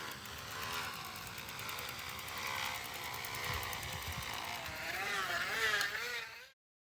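Empty plastic water bottle wedged against a turning bicycle tyre, flapping against it in a fast buzzing rattle like a small motorcycle engine, its pitch wavering with the wheel's speed. It cuts off suddenly near the end.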